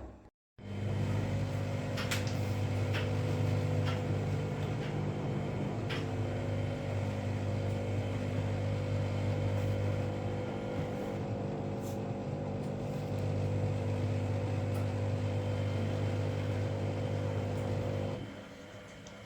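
Washing machine motor running with a steady electric hum and a few light clicks, then stopping suddenly near the end.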